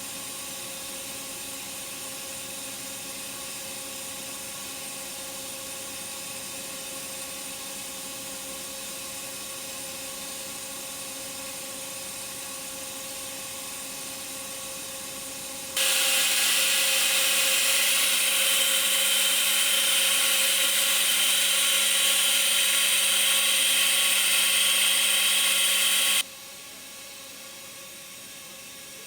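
Steady factory machine hum holding several fixed whining tones. About 16 s in it cuts abruptly to a much louder high hiss and whine, which stops just as suddenly about ten seconds later.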